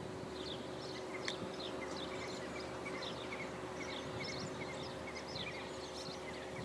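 Small birds chirping repeatedly in the background, short high calls throughout, over a faint steady hum.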